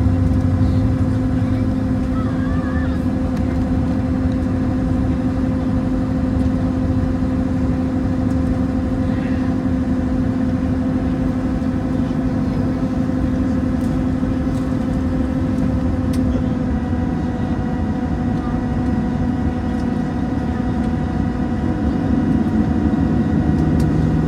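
Boeing 737 jet engines running steadily at low power, heard inside the passenger cabin as the airliner moves on the ground after landing: a continuous hum carrying several steady tones. The strongest tone fades out about two-thirds of the way through, and a lower tone comes in near the end.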